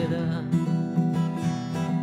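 Acoustic guitar strummed in a steady rhythm, several chord strokes a second.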